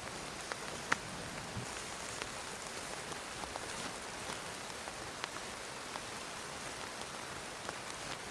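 Steady rain: an even hiss with scattered sharp ticks of single drops striking a surface close by.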